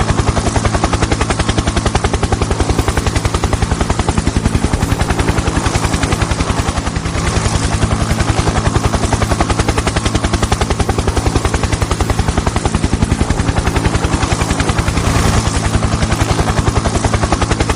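Helicopter rotor chopping at a fast, even beat over a steady engine drone.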